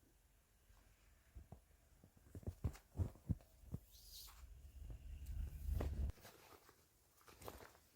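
A series of soft, low thumps, then a low rumble that cuts off suddenly about six seconds in.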